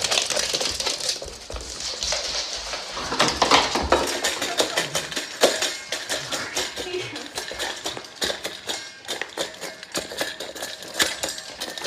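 Rapid, irregular clicking and clattering of small hard objects, with a few louder knocks.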